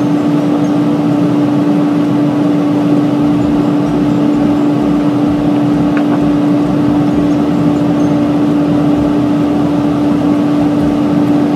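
A steady mechanical hum with one constant low tone over a noisy whir, unchanging in level.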